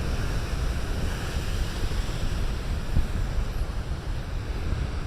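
Big surf breaking and washing ashore in a continuous rushing hiss that swells about a second in, with wind rumbling on the microphone underneath.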